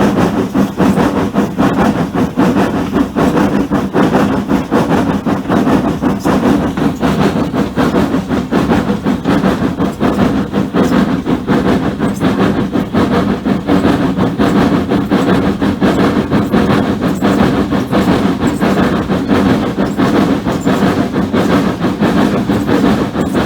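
A steam-hauled heritage passenger train running: a loud, steady rumble with dense, rapid clatter that keeps on without a break.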